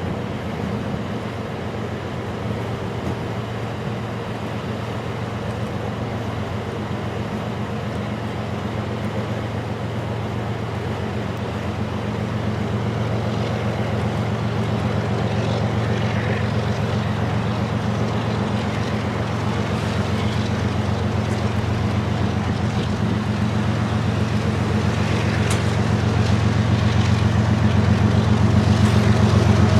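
Diesel locomotives of a Canadian National freight train approaching, their engines' low steady hum growing gradually louder.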